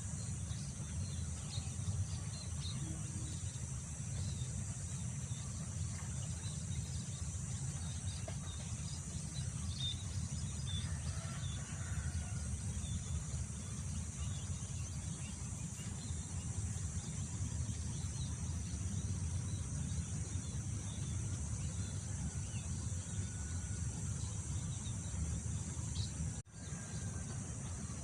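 Wind rumbling on the microphone over a steady high drone of insects, with scattered bird chirps. The sound drops out briefly near the end.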